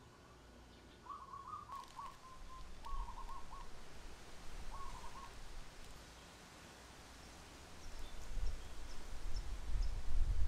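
Bird song in the background: a short series of warbling notes, then a few faint high chirps. Near the end come louder low thumps and rubbing as the foam air filter is handled and pressed into the CVT cover.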